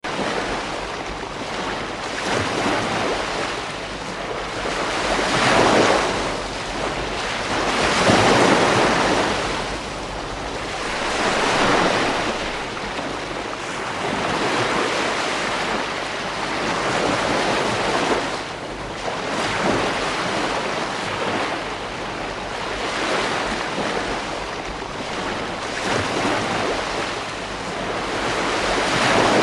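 Ocean waves breaking on a beach, a continuous wash of surf that swells and ebbs every few seconds.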